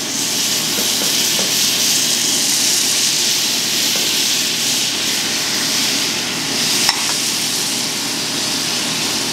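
Raw frog legs sizzling steadily in a hot buttered frying pan, just after being laid in. One brief sharp tick about seven seconds in.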